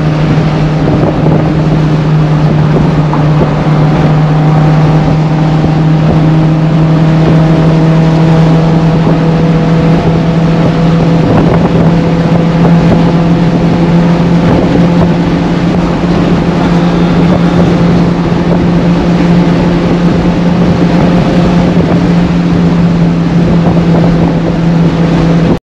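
VW Golf 1's 1.8-litre 16-valve four-cylinder on twin Weber carburettors with a Supersprint exhaust, heard from inside the cabin, running at a steady high cruise with a constant loud drone and road and wind noise behind it.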